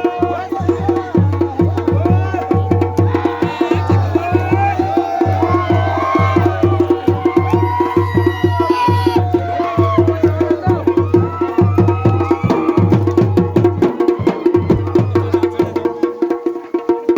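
Garhwali dhol and damau drums playing a fast, dense rhythm. A steady held tone and a higher, wavering melody run over the drumming.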